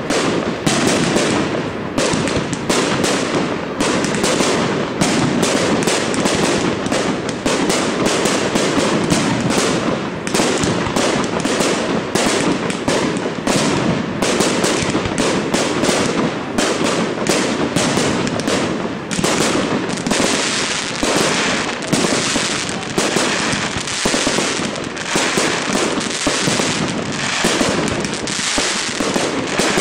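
Aerial fireworks going off in a rapid, unbroken barrage: many bangs and crackles a second, overlapping throughout.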